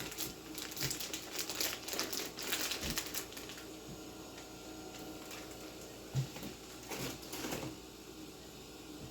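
Crinkling and rustling of something being handled, dense for about three and a half seconds, then quieter with a few light knocks.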